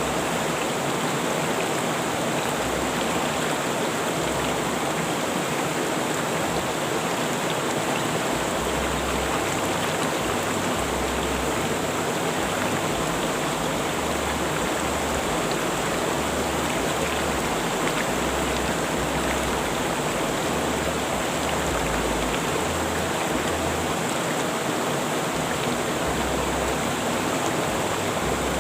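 River water rushing and flowing over rocks in a steady, unbroken wash.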